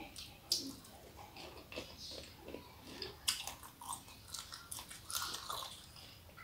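A person biting into and chewing a shrimp in sambal close to the microphone: irregular small clicks and mouth noises.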